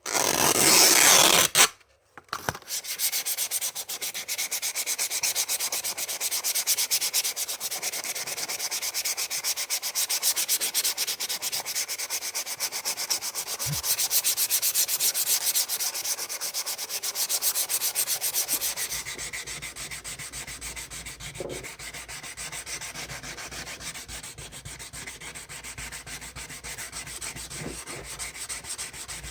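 Sandpaper worked by hand over a Volkswagen Golf trim ring in rapid back-and-forth strokes, louder for the first two-thirds and softer after that. It opens with a loud hissing rush of about a second and a half.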